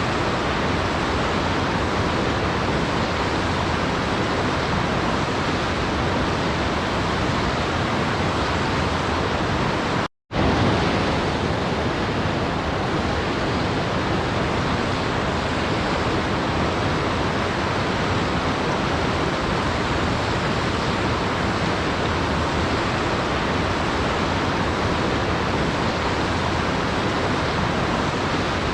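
Steady rushing of a waterfall, an even wash of water noise. It cuts out completely for a split second about ten seconds in, then resumes.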